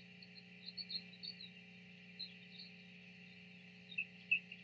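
Small birds chirping in the background: scattered short, high chirps, a quick run of them about a second in and two louder ones near the end, over a steady low hum.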